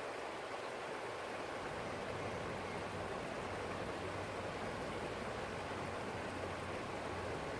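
Forest stream flowing steadily, an even rushing of water with a faint low hum underneath.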